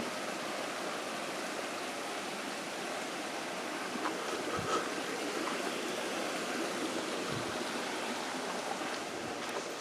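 Steady rushing of flowing water, with a couple of faint low thumps in the middle.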